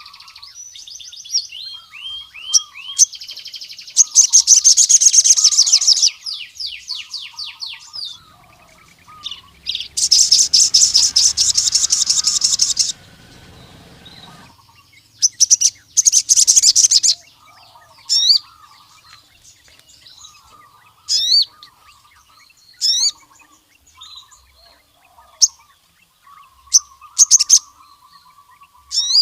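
Male crimson sunbird (sogon) singing: loud, very fast, high rattling trills of one to three seconds, three times, between sharp single high chirps every second or two. Softer, lower twittering notes run underneath.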